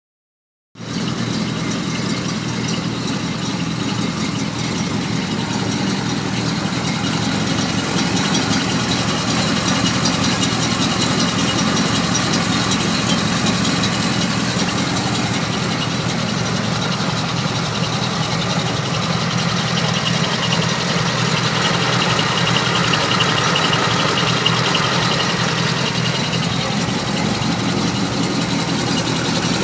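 Rebuilt 340 cubic-inch V8 engine of a hot rod idling steadily, coming in abruptly about a second in.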